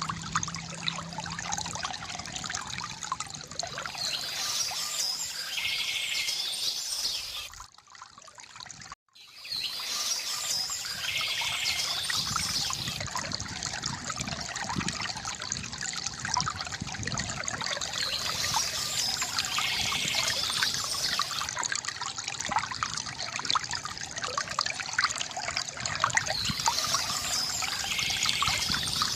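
Water trickling and splashing steadily from a bamboo fountain, with birds chirping every several seconds. The sound drops out briefly about eight seconds in, then resumes.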